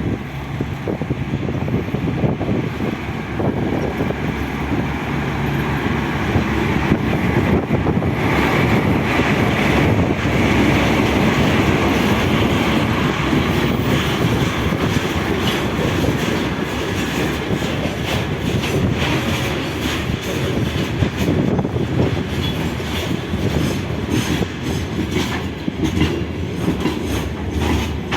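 A train passing, its wheels clattering over the rail joints in a steady run of clicks over continuous rolling rumble; the clicks come thicker near the end.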